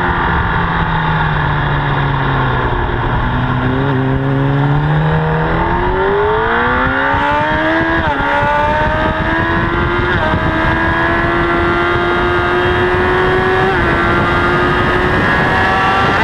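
Honda CBR1000RR's inline-four engine heard from a camera mounted on the bike: revs falling while slowing for a corner, then climbing hard through the gears, with quick upshifts about halfway through, around two-thirds of the way, and again near the end.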